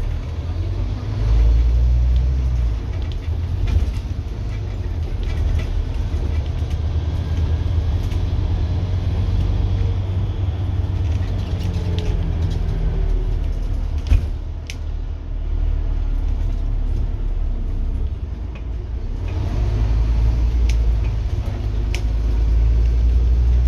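Scania N230UD double-decker bus's five-cylinder diesel engine working hard, a deep steady drone that swells louder at times as it pulls. Light rattles and a single sharp knock about fourteen seconds in.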